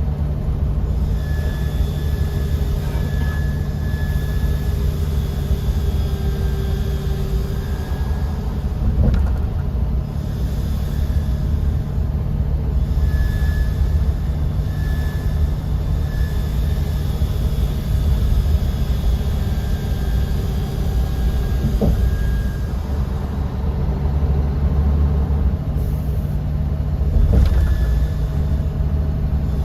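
Bus in motion heard from inside the cabin: a steady low rumble of engine and road noise, with a few brief knocks or rattles.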